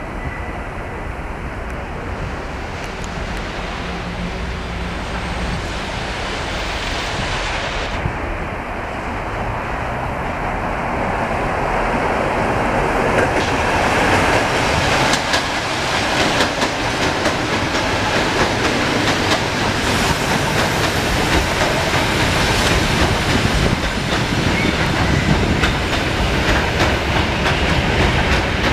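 Electric commuter trains running past on the track: a steady rumble, then, from about halfway, louder and closer, with fast clickety-clack of the wheels over the rail joints.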